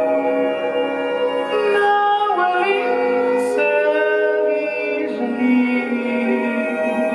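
Live ensemble music with notes held steady and a melodic line that glides up and down in pitch a couple of seconds in.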